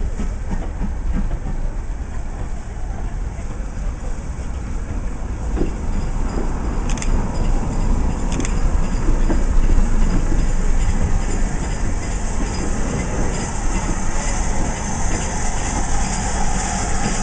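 A diesel train running past, a steady rumbling roar that grows louder and hissier about halfway through, with a couple of sharp clicks from the wheels.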